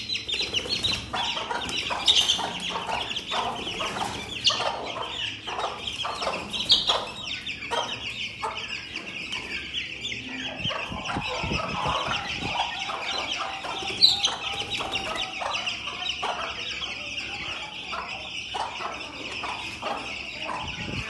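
A brood of Aseel chicks cheeping continuously in a dense chorus of rapid high peeps, with a few louder single calls standing out.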